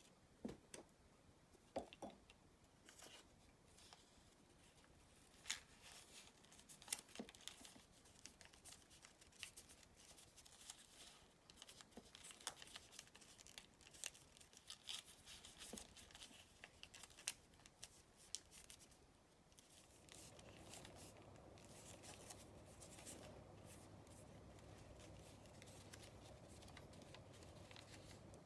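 Origami paper being handled and folded: faint rustling and crinkling with many short, sharp ticks as the paper is creased. About two-thirds of the way through, a steady faint hum joins in underneath.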